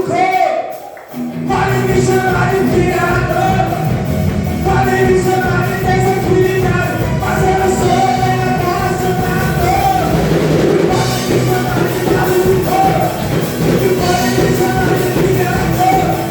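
Upbeat Christian praise song with singing over a full band; the drums and band come in about a second and a half in and keep a steady beat.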